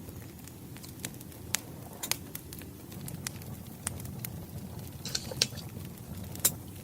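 Wood fire crackling: irregular sharp pops and snaps over a low, steady rumble of flames. There is a quick flurry of crackles about five seconds in and the loudest pop near the end.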